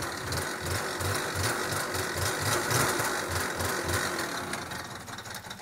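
Two-stroke single-cylinder engine of an Aprilia SR 50 scooter running at idle after a cold start at −7 °C, with an uneven low pulsing under a rattly buzz. It cuts off suddenly near the end.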